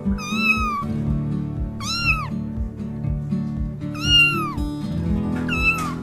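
A cat meowing four times in high-pitched calls, each falling or arching in pitch, over background music with a steady beat.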